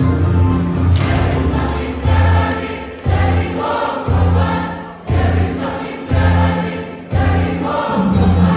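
A choir singing a hymn with a steady beat. Strong low bass notes are struck about once a second, each fading before the next.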